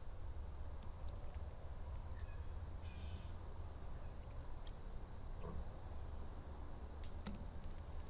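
About four short, high bird chirps spaced out over a low steady rumble, with a few faint clicks as a blue jay's bill picks at seed on a wooden rail.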